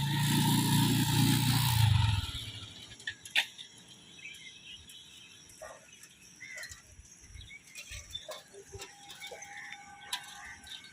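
TVS Apache motorcycle's single-cylinder engine running, its pitch sinking slightly before it cuts off about two seconds in. Quiet outdoor ambience follows, with a few sharp clicks and faint bird calls.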